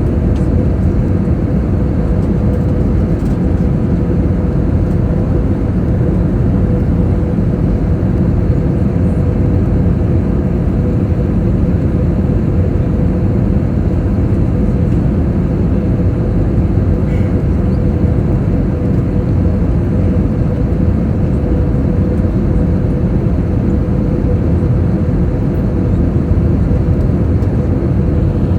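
Steady cabin noise of an Airbus airliner in flight on approach to landing: engine and airflow noise with a steady mid-pitched hum, even in level throughout.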